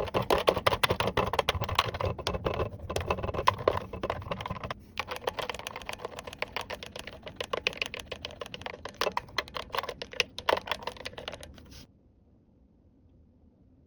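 Small plastic toy pieces and packaging being handled: a dense run of quick clicks, taps and crackles that stops abruptly about twelve seconds in.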